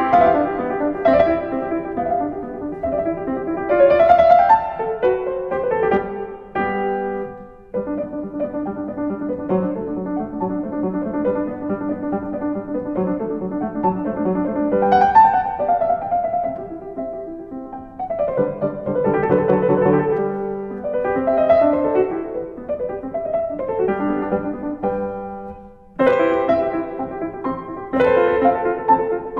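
Solo piano playing a melody over chords, in phrases with brief pauses.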